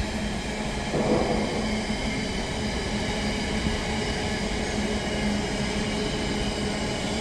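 Container wagons of a freight train rolling past on the main line at speed: a steady rumble of wheels on rail, with a low steady hum underneath.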